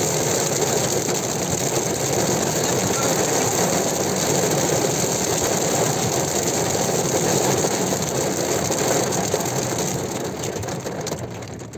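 Heavy rain drumming on a car's roof and windscreen, heard from inside the cabin: a dense, steady patter that eases off near the end.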